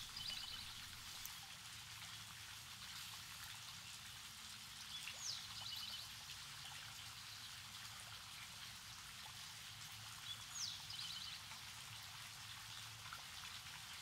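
Faint outdoor evening ambience: a steady hiss with a songbird singing the same short phrase three times, about five seconds apart, each a quick downward slur followed by a fast trill.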